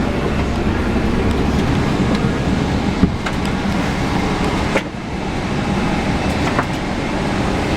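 Steady low rumble and hiss of a parked airliner's cabin, with a sharp click about three seconds in and a knock near the five-second mark.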